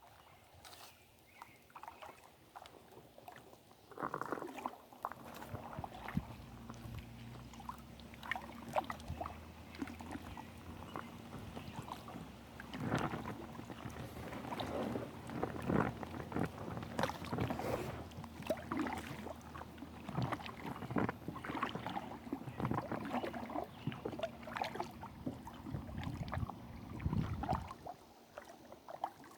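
Kayak paddling: a paddle dipping and splashing in the water, with irregular splashes and trickles and a low rumble underneath. It picks up about four seconds in and dies down near the end.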